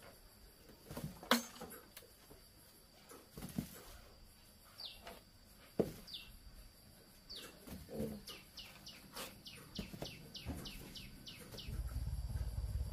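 A bird chirping: short falling chirps, a few spread apart and then a quick run of about three or four a second. There are a couple of sharp knocks, and a low engine rumble comes in near the end.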